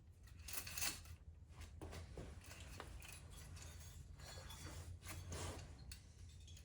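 Metal tools and engine parts clinking and scraping as they are handled, in a string of irregular small knocks and rubs, loudest just under a second in, over a steady low hum.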